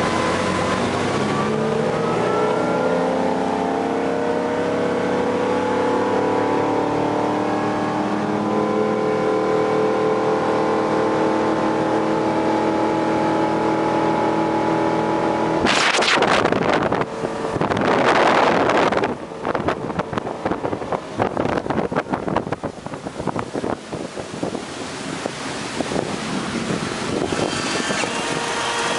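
The sterndrive engine of a 2006 Chaparral 190 SSi runabout running, its pitch climbing over the first few seconds and then holding steady. About sixteen seconds in, a loud rushing noise takes over, followed by irregular crackling.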